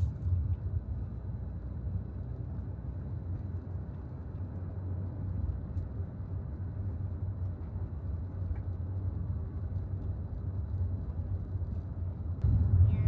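Steady low road rumble of a car being driven, heard from inside the cabin; it steps up louder near the end.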